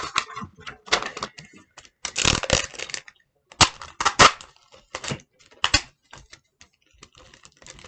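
Paper crinkling and rustling as it is crumpled and shaped by hand, in irregular crackly bursts with short pauses between them.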